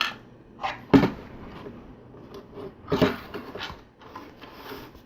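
Plastic LEGO pieces clicking and knocking as they are handled and pressed together on a table, a few scattered sharp clicks with the sharpest about a second in and another near three seconds.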